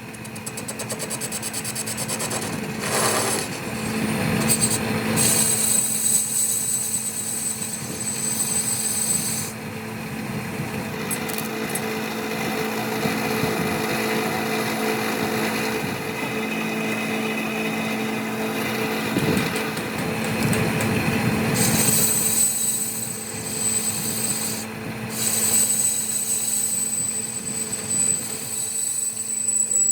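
Metalworking machine running steadily, its cutting tool scraping and rasping on metal.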